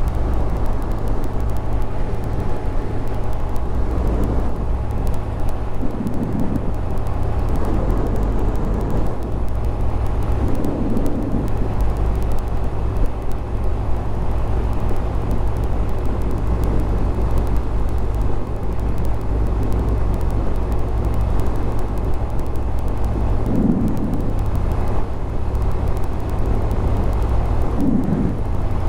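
Honda Grom 125's single-cylinder engine running steadily on the move, under a heavy rumble of wind on the microphone.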